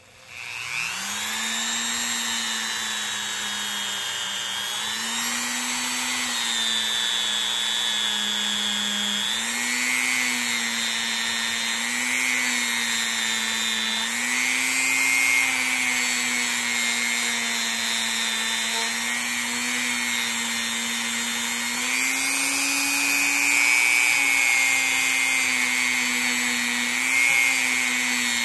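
Dremel rotary tool spinning up and then running steadily, polishing a pocket knife's back springs with rubbing compound. It is a high motor whine whose pitch wavers a little as the tool works.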